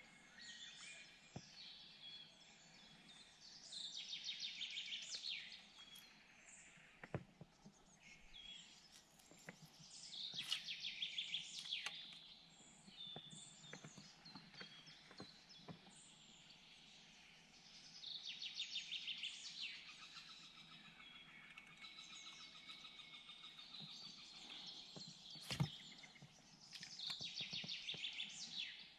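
A songbird singing faintly, repeating a rapid trilled phrase about two seconds long four times. There are a few sharp clicks or knocks in between, the loudest near the end.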